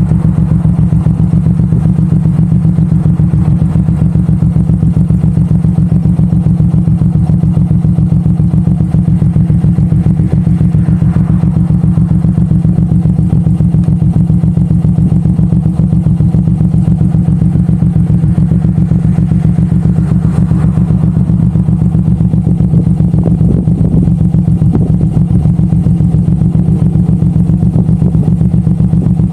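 Suzuki Boulevard M109R's big V-twin engine running steadily under way, held at an even speed with no hard revving.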